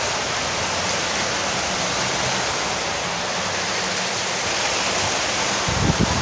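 Heavy rain drumming steadily on a porch roof, an even hiss of countless drops. Near the end a low rumble comes in beneath it.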